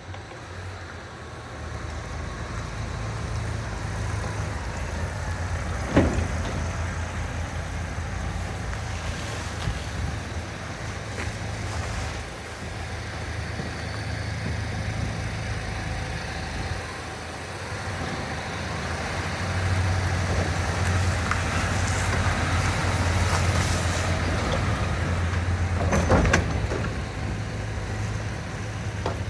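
Isuzu Grafter N35.125's 1,898cc diesel engine running at idle, a steady low hum that swells for a while past the middle. Two sharp knocks sound, one about six seconds in and one near the end.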